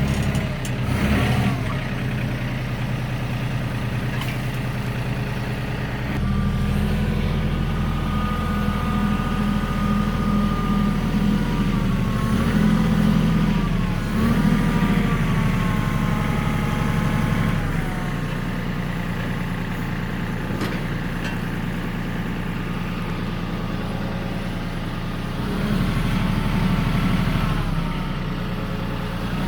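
RK37 compact diesel tractor running and driving a three-point PTO post hole auger. About six seconds in the engine note rises and holds under load for some twelve seconds, with a whine that sags and wobbles as the auger bites into the soil. It then eases back and rises again briefly near the end.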